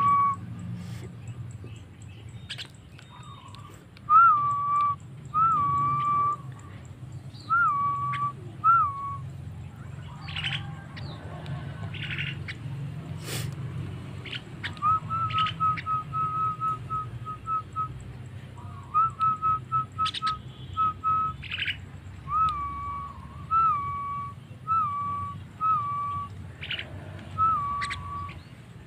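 Javan myna (jalak kebo) whistling a series of short notes that rise and drop. It breaks twice into quick runs of clipped notes, with short harsh calls mixed in, over a steady low hum.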